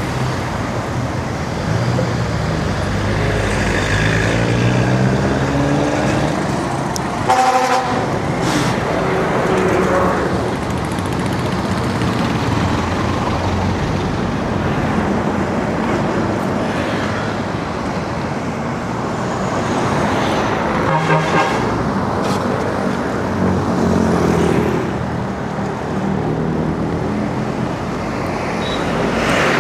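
Road traffic around a bicycle: cars and other motor vehicles running alongside and past, engine pitches rising and falling. Short horn toots sound about seven seconds in and again around twenty seconds in.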